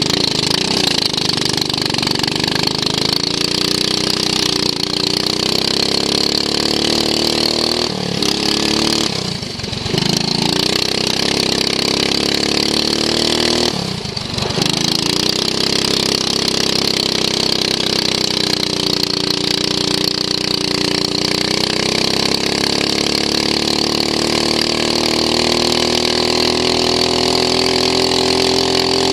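Racing lawn mower's engine heard onboard at speed, its pitch rising and falling with the throttle. It drops away briefly twice, about nine and fourteen seconds in, then climbs again.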